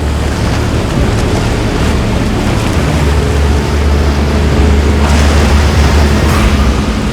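Boat engines running with a steady low drone, mixed with wash of water and wind buffeting the microphone. The sound swells at the start and then holds steady.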